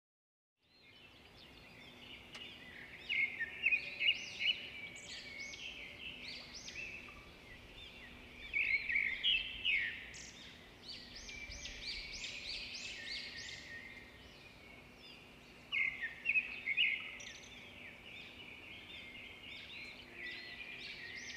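Birds chirping in quick runs of short high notes, coming in several louder flurries, over a faint steady hum.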